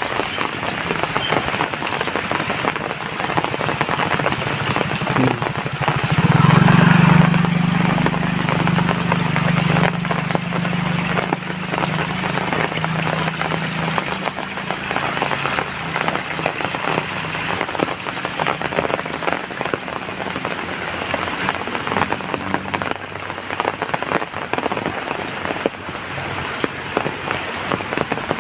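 Rain falling steadily, a dense patter of drops. About six seconds in, a low droning hum comes up, is loudest briefly, then fades away over the next fifteen seconds or so.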